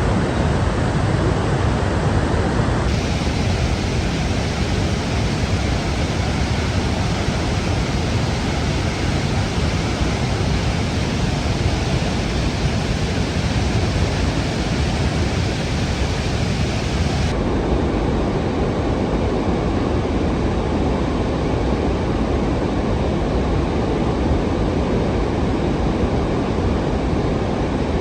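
Steady rushing noise that changes character abruptly about three seconds in and again about seventeen seconds in.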